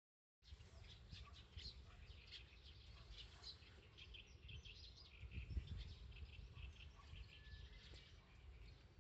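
Small birds chirping faintly and repeatedly in short high notes, over a steady low rumble.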